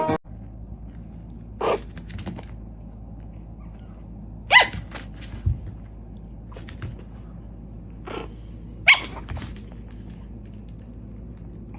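Several short animal calls, spaced a few seconds apart, over a steady low hum.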